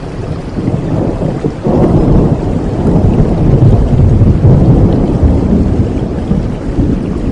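Steady rain with a low rumble of thunder that swells about two seconds in and slowly dies away toward the end.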